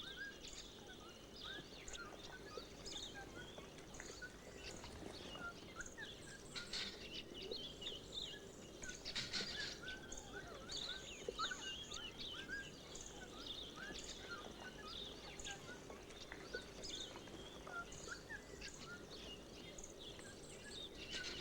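Wild bird chirps, many short calls overlapping throughout, over a faint steady background hum.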